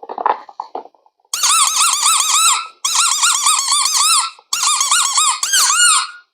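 High-pitched squeaking that wobbles up and down about five times a second, in three runs of a second or more each. It starts after a second of short scratchy sounds and cuts off suddenly.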